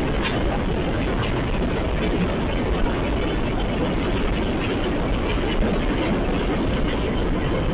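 Train running, a steady rumble that stays at an even level with no distinct impacts.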